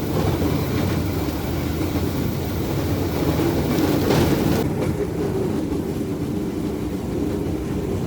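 Rail bike rolling along the track: a steady rumble of its wheels running on the rails. A higher hiss over it drops away about four and a half seconds in.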